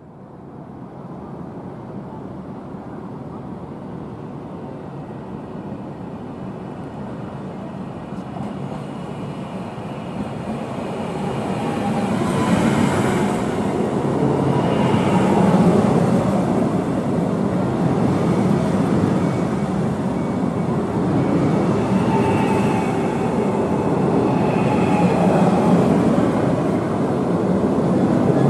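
A passenger train running along the track, its rumble building over the first dozen seconds and then staying loud, with brief high squeals or whines now and then.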